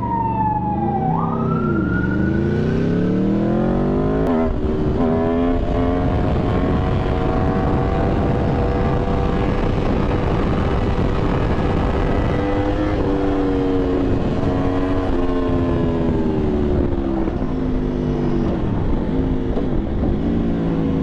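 Aprilia Tuono V4 motorcycle's V4 engine pulling hard through a gear, then running at a steady, high engine speed under throttle, easing off near the end. A siren wails in the first few seconds.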